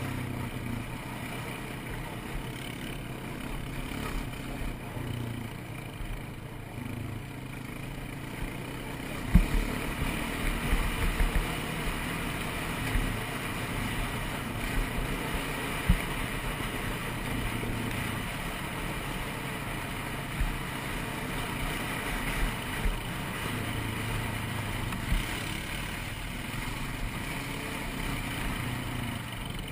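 ATV engine running at a fairly steady pitch, with occasional sharp low thumps, the clearest about nine and sixteen seconds in.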